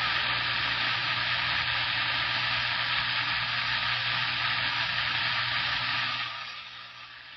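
CB radio static: a steady hiss from the receiver's speaker between transmissions. It fades down to a lower background hiss about six seconds in.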